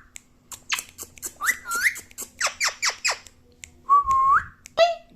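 Pet parrot whistling and chirping: two short rising whistles, then a quick run of sharp falling chirps, then a longer whistle that rises at its end about four seconds in.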